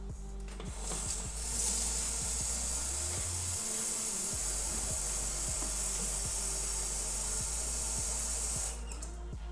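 A steady hiss that starts about a second in and stops shortly before the end, over background music with a beat.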